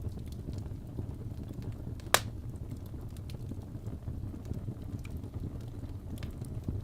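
Wood fire crackling over a steady low rumble, with faint scattered snaps and one loud sharp pop about two seconds in.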